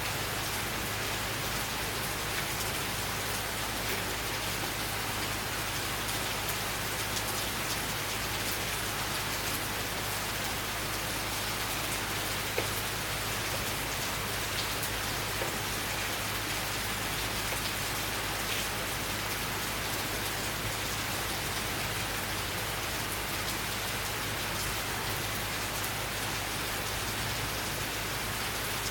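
Steady summer rain falling on surfaces, with a few single drops standing out now and then.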